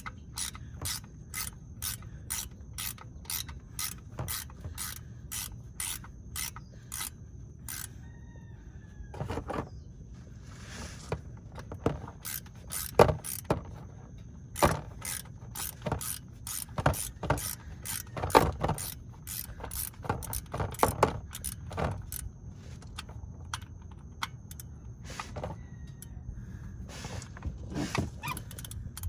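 Ratchet wrench with a 13 mm socket clicking as it backs out an oil drain plug: a steady run of about three clicks a second, then irregular, louder clicks and knocks through the middle, and more clicking near the end.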